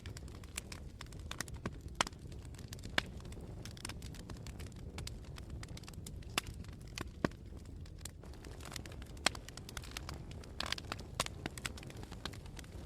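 Campfire burning: a low, steady rush under irregular sharp crackles and pops from the burning wood, with a quick flurry of crackles about ten and a half seconds in.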